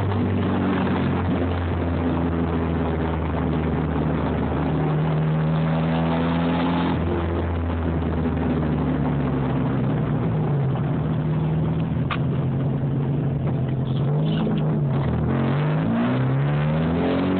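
Turbocharged Nissan SR20DET four-cylinder engine in a Datsun 260Z, heard from inside the cabin while driving. The revs climb for the first several seconds, drop abruptly about seven seconds in, run fairly steady, then rise and fall several times near the end.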